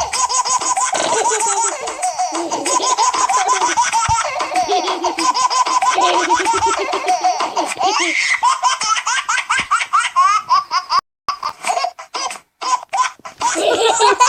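A baby-laughing ringtone playing: a baby's quick, repeated high-pitched giggles and belly laughs, broken by a few short silences near the end.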